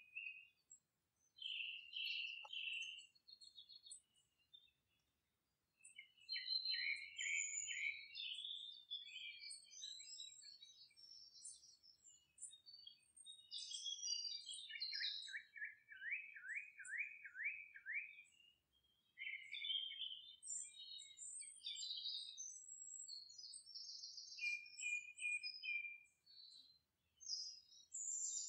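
Songbirds chirping and trilling in short, high phrases, with a run of about eight quick down-slurred notes past the middle and a brief lull a few seconds in.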